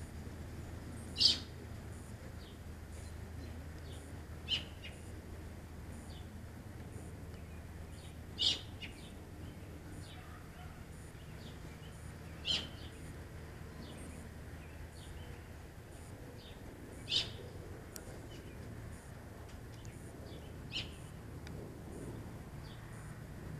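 A bird giving short, high single chirps every three to five seconds, the first one the loudest, over a faint low steady hum.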